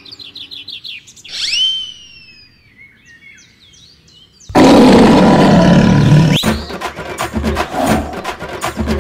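Edited sound effects: quick twittering chirps and a falling whistle, then small bird tweets, then a sudden loud animal roar about four and a half seconds in. A sharp hit follows, and background music with a regular drum beat starts.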